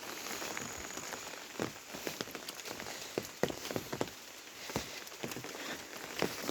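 Steady monsoon rain, with irregular louder drops tapping close by.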